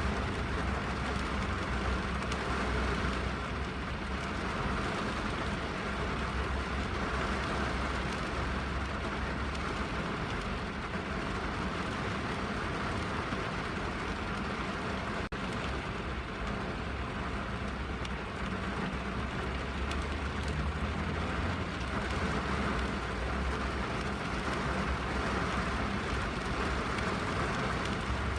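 Steady rain falling on a car's roof and windows, heard from inside the cabin, with a low steady rumble underneath.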